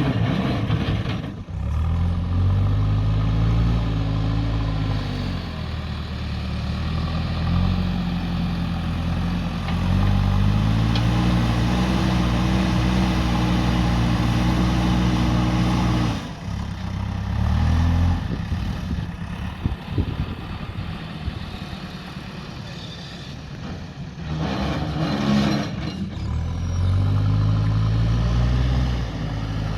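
JCB 3DX backhoe loader's diesel engine revving up and down repeatedly as it works, its pitch climbing, holding and dropping several times, with a few sudden breaks in the sound.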